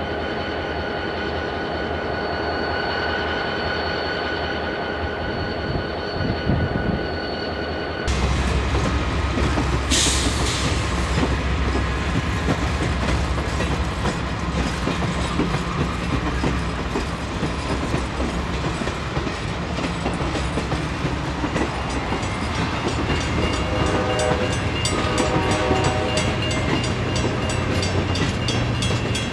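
Diesel-hauled passenger train running. A steady diesel hum is heard for about eight seconds, then the sound changes abruptly to a louder rumble with a sharp hiss about ten seconds in. Horn tones sound on and off near the end.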